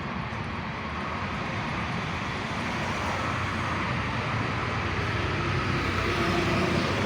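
Train approaching: a steady rumble and rushing noise growing gradually louder.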